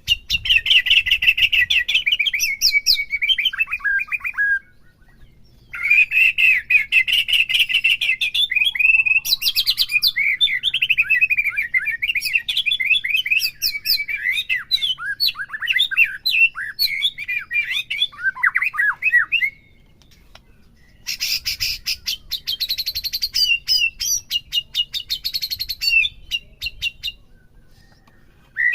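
White-rumped shama (murai batu) singing a long, varied song of quick whistled phrases mixed with rapid harsh rattling runs, broken by two short pauses.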